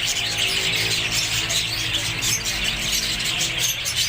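A flock of Australian parrots squawking and chattering without pause, over a low steady hum.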